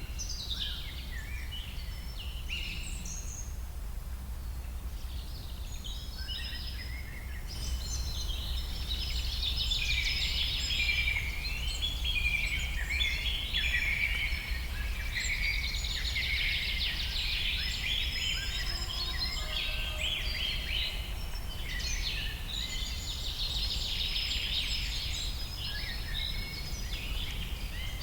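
Many birds calling and chattering at once, short overlapping chirps and trills, over a steady low rumble. The chorus becomes denser and louder about a quarter of the way in.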